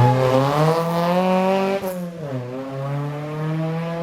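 Historic rally car engine accelerating hard, its pitch climbing, then dropping sharply for an upshift about two seconds in before climbing again under full throttle.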